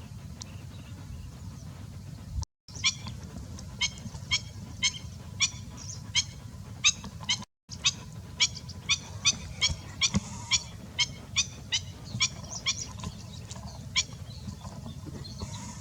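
A bird giving short, sharp calls over and over, about two a second, starting about three seconds in, over a steady low rumble.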